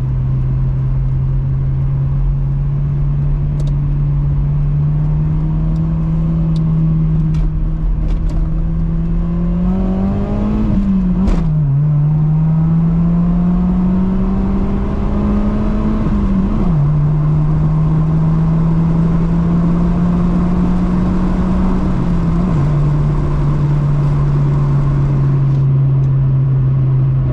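Honda Civic EP2's 1.6-litre four-cylinder engine through an aftermarket cat-back exhaust, droning as the car accelerates, the pitch climbing slowly and dropping at three gear changes, about eleven, seventeen and twenty-two seconds in.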